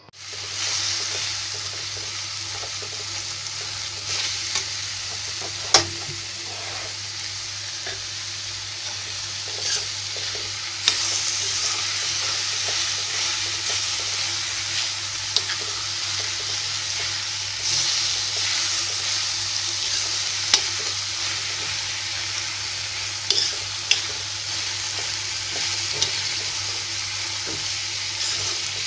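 Diced pumpkin sabzi sizzling in a frying pan as a spatula stirs it, with a dozen or so sharp clicks and scrapes of the spatula against the pan over a steady frying hiss.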